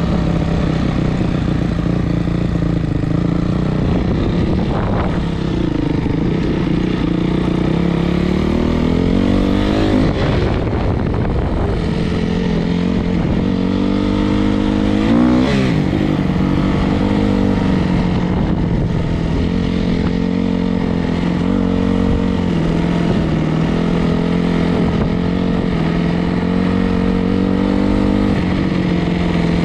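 Dirt bike's four-stroke single-cylinder engine running under way, its pitch rising and falling with the throttle, with sharper revs about a third of the way in and again around halfway.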